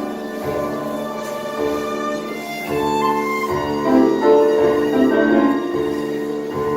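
Live tango music: violin carrying the melody with piano, over low bass notes that fall at a steady, roughly one-per-second pulse.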